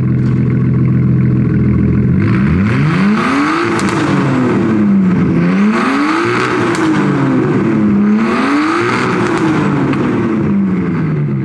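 Nissan Skyline R33's turbocharged RB25DET straight-six, straight-piped, running steadily, then revving up and back down three times, each rise and fall taking about three seconds.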